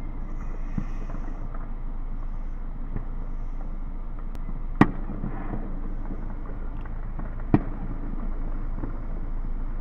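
Fireworks going off: two sharp bangs, about five and seven and a half seconds in, with a few fainter pops, over a steady low rumble.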